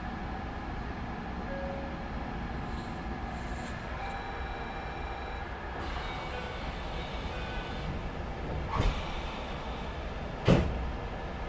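Sanyo 6000 series electric train standing at a platform: a steady low hum from the train, with a few faint tones coming and going. Near the end come two sharp knocks, a second and a half apart, the second louder.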